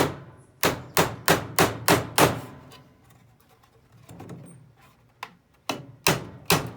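Hammer driving nails into a wooden board: a quick run of about six blows, about three a second, then a pause with a few light taps, then the blows start again near the end.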